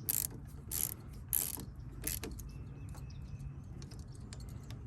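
Metal parts being fitted and tightened by hand, with short scraping clicks of a wrench or ratchet, about four of them in the first two and a half seconds and a few lighter ticks after, over a low steady hum. The part is being snugged down because it keeps moving even when fully tightened.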